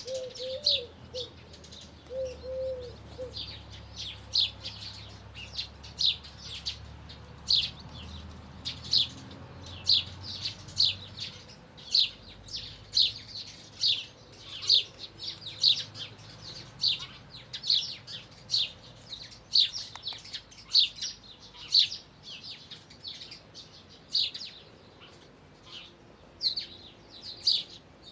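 Small songbirds chirping: short, high chirps repeated about once or twice a second, with a lower, wavering call in the first few seconds.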